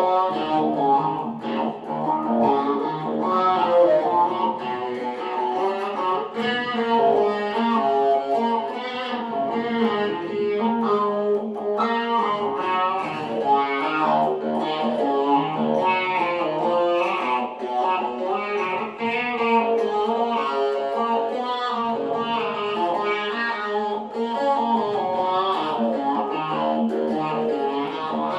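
Electric guitar riff played through a talk box, the notes shaped into vowel-like sounds by the player's mouth and picked up by a microphone rather than an amplifier.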